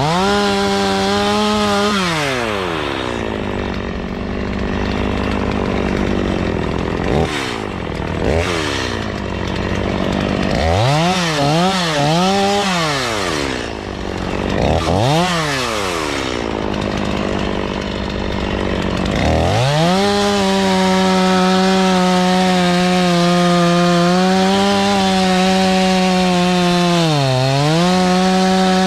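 Two-stroke chainsaw revving up and falling back several times, then held at full throttle through the last third as it cuts into a tree, dipping briefly under load near the end.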